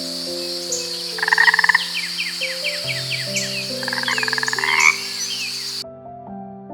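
Frogs calling: two rapid pulsed croaking trills, with a series of short chirps between them and a steady high buzz behind, ending abruptly near the end, over background music of held notes.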